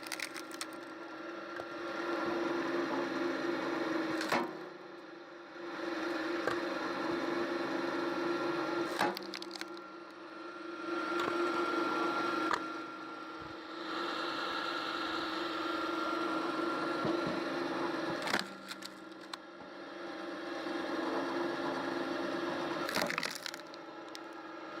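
Homemade firewood splitter running with a steady machine hum while logs split apart, with a sharp crack of splitting wood every few seconds and splintering in between.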